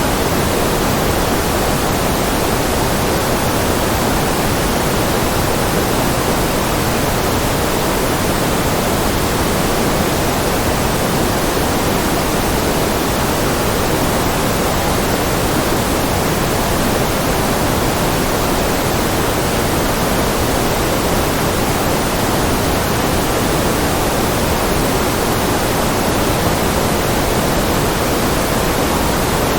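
Generated white noise: a steady, even hiss spread across the whole range of pitch, with no change in level and no other events.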